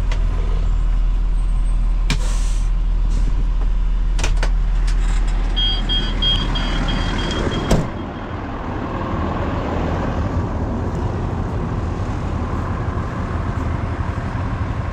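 Vehicle idling with a steady low hum; a door opens, a warning chime beeps rapidly for about two seconds, and a door shuts with a sharp knock about eight seconds in, after which the low hum drops away.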